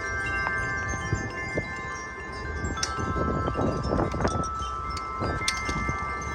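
A 27-inch Corinthian Bells wind chime ringing in strong wind, several tones overlapping and sustaining, over a low rumble of wind on the microphone.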